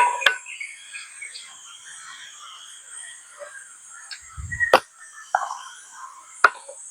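Slime being squished and worked by hand: sticky clicks and wet little pops, with three sharp clicks and one short low thump, over a faint steady high hiss.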